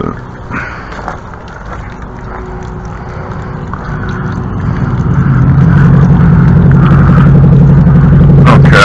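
An engine running steadily with a low hum, growing much louder over the second half. A few sharp clicks come in the first second or so.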